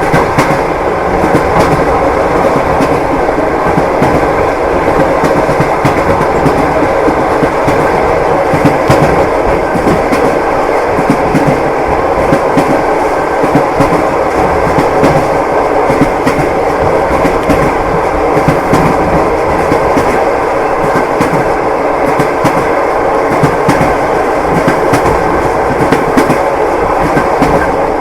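Train wheels clattering steadily over rail joints beneath a moving passenger car, with a continuous rolling rumble.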